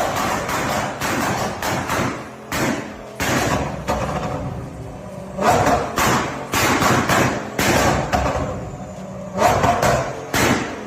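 Ferrari 488 Pista's twin-turbo V8 idling between repeated short throttle blips, each ending in sharp exhaust bangs, about a dozen in all, the kind of bangs that come with flames from the exhaust.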